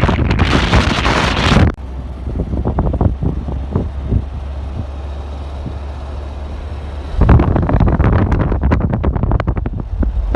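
Wind buffeting the microphone in gusts. The buffeting is loud at the start, eases to a steady low rumble for several seconds in the middle, then comes back hard about seven seconds in.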